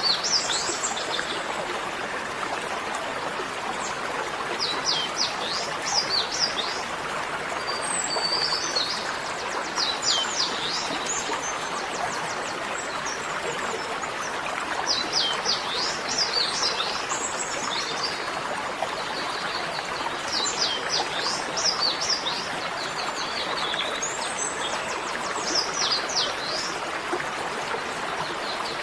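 A small bird chirping in repeated bursts of four to six quick falling notes, a burst every few seconds, over a steady rushing background like running water.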